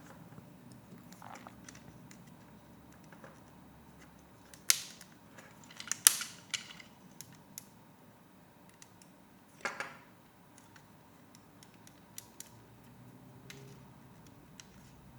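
Lego pieces clicking and snapping as they are handled and pressed together: scattered small clicks, with two sharp snaps around five and six seconds in and a short clatter near ten seconds.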